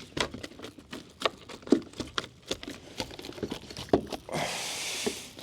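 Landing a hooked bream with a net from a kayak: a run of irregular small knocks and clicks of gear and hull, then about a second of splashing near the end.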